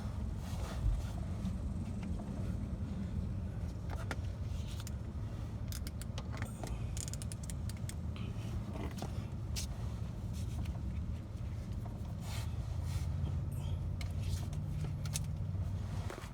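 Hand ratchet and metal tools clicking and clinking now and then as bolts are snugged into the aluminum engine block, over a steady low hum.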